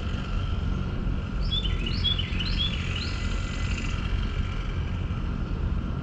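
Outdoor ambience with a steady low rumble and a small bird chirping a quick run of about five short, falling chirps in the middle.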